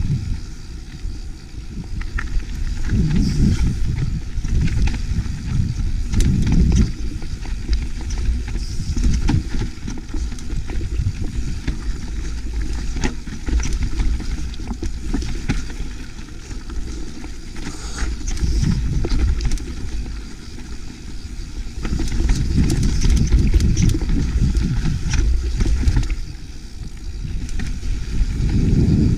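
Wind rumbling on the camera microphone of a rider descending a rough rocky trail, rising and falling in waves, with scattered clicks and rattles from riding over rock.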